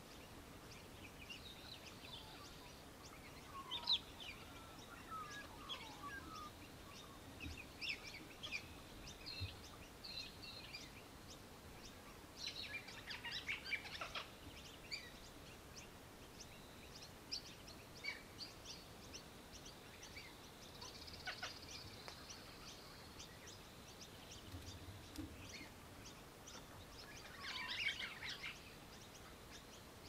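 Birds chirping: scattered short, high calls with a few louder clusters, around the middle and near the end, over a faint outdoor hiss.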